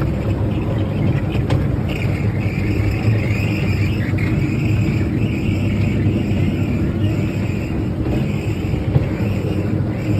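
Steady rumbling of a moving theme-park tour train, with a higher hiss joining about two seconds in.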